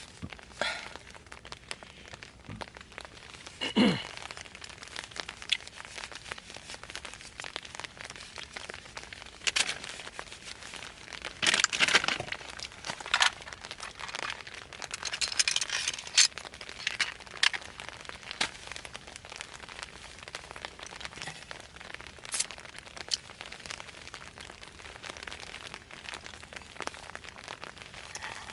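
Irregular crinkling and rustling with scattered sharp cracks and clicks. The loudest bursts come about four seconds in and around twelve seconds in.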